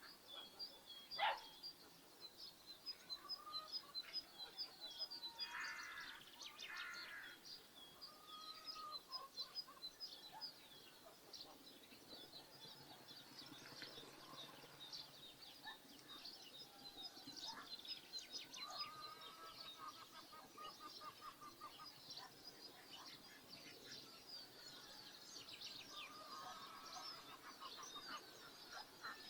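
Rural bird ambience: small birds chirp continuously in quick high twitters, and farmyard fowl call a few times in lower runs of repeated notes. A sharp, falling call about a second in is the loudest sound.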